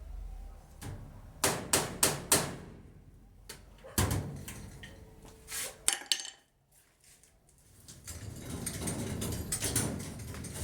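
A series of sharp knocks and clatters of hard objects, four in quick succession about a second and a half in, then more around four and six seconds in, followed by a steady rustling noise.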